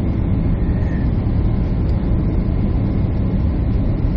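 Jet airliner cabin noise heard from a passenger seat: a loud, steady rush of engine and airflow noise, heaviest in the low end, with no change.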